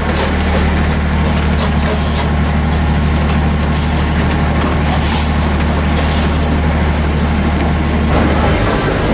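A steady low engine drone as a narrow-gauge steam locomotive pulls open passenger carriages past, with a few brief higher hisses; the drone cuts out about eight seconds in.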